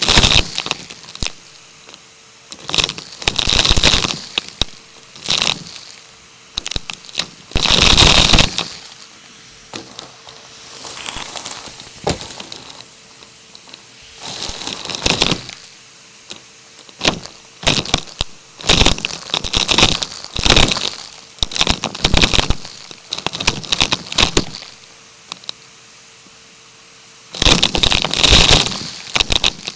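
Plastic being handled, crinkling and crackling in irregular bursts of a second or so, with short quiet gaps between them.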